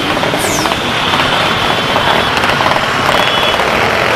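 Motorcycles running on the move, a steady, loud vehicle noise.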